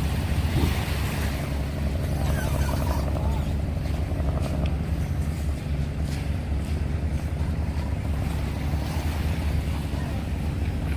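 Passenger ferry's engine running with a steady low hum, with wind and water noise over it.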